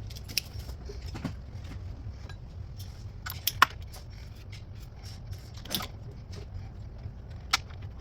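Scattered sharp metallic clinks and knocks of hand tools and parts being handled in a car's engine bay, about six hits, the loudest a little past three and a half seconds in, over a steady low hum.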